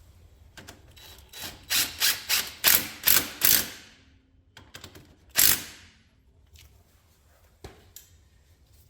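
Ratchet wrench snugging up a bolt: a quick run of about six ratcheting strokes over two seconds, then one more a couple of seconds later.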